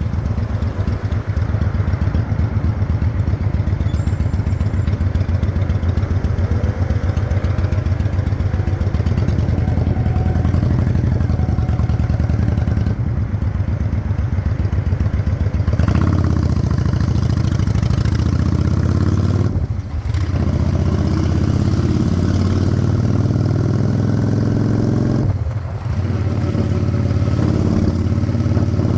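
Honda Shadow 600 V-twin motorcycle engine running under way, a steady, loud, pulsing engine note. The level dips briefly twice, about 20 and 25 seconds in, where the throttle eases off.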